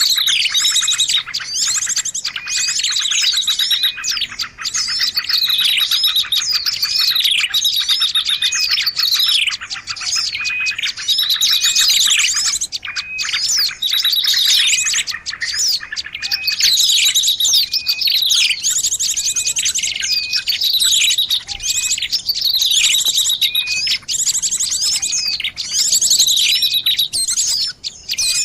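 A noisy mixed chorus of many birds chirping and calling over one another, a bird-luring (pikat) call track. Rapid trills and short downward-sweeping whistles repeat again and again without a break.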